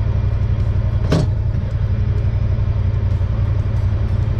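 Honda Pioneer 1000 side-by-side's engine running steadily under way, with one brief sharp knock about a second in.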